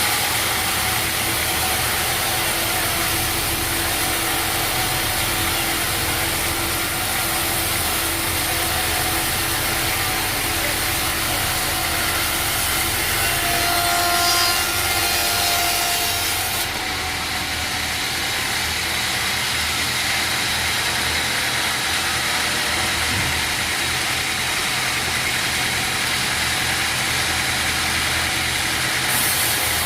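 Sawmill saw running and cutting through a log: a steady mechanical noise, with a brief higher-pitched whine about halfway through.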